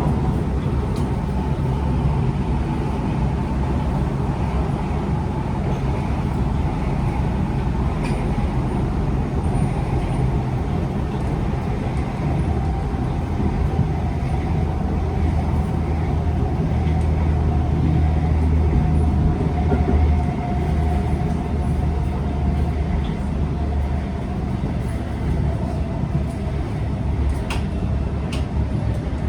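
Cabin noise of a Kawasaki C151 metro train running between stations: a steady low rumble of wheels on track with a constant electric motor whine over it.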